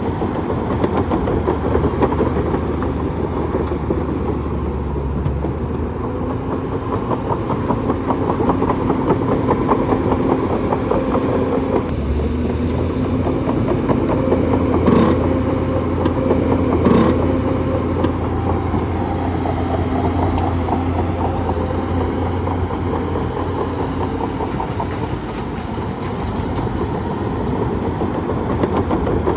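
Bulldozer running under load: the steady drone of its diesel engine over the rapid clatter of steel tracks, with two sharp metallic clanks about halfway through.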